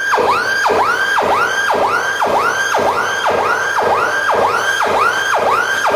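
Electronic alarm siren sounding the earthquake drill signal: a loud, fast-repeating wail whose pitch drops sharply and climbs back up about twice a second, starting suddenly.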